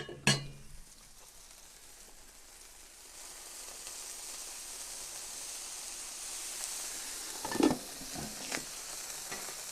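Food sizzling in oil on a hot flat-top griddle, the hiss growing louder about three seconds in. A sharp metal clank comes at the start, and a few short knocks near the end.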